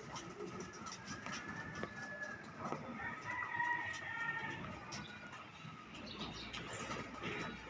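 Birds calling, with a long drawn-out call from about three to four and a half seconds in.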